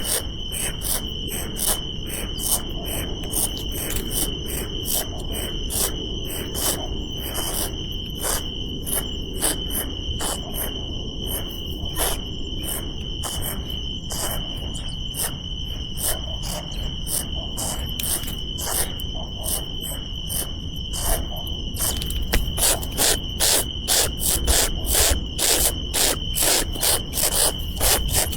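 Insects calling: a steady high-pitched trill with rapid chirps layered over it. About two-thirds of the way through, the chirping grows louder and turns into a regular pulse of about three or four a second.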